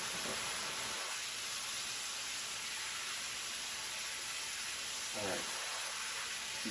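Ground beef frying in a skillet, a steady sizzling hiss.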